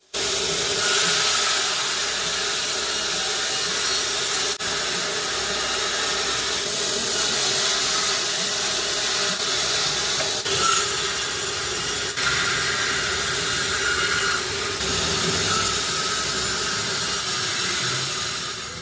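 A sawmill saw cutting through a teak log: a steady, loud hissing cut over a constant machine hum, with a few abrupt breaks where the sound shifts suddenly.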